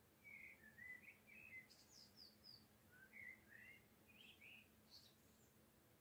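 A songbird singing faintly: a varied run of short, high warbled and slurred notes that starts just after the beginning and stops about five seconds in.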